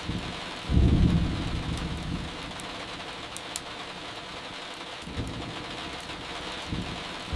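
Steady rain with a rumble of thunder that starts about a second in and fades over the next second or so, then softer rumbles toward the end. Sharp little crackles of burning firewood come through now and then.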